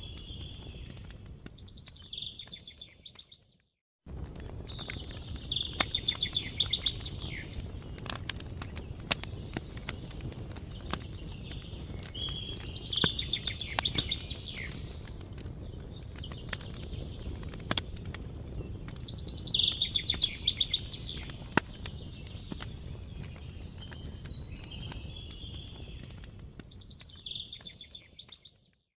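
Campfire crackling, with frequent sharp pops over a low rumble, while a songbird sings short trilled phrases every several seconds. The sound fades out to silence briefly about four seconds in and again at the very end.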